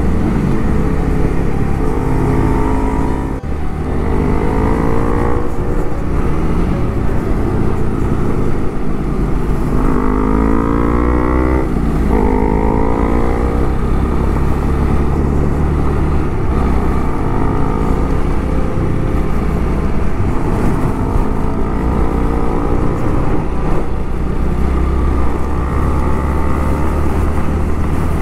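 Honda Rebel 250's single-cylinder engine on the move, rising in pitch in several pulls as it accelerates through the gears, over a steady low rumble; rain can be heard.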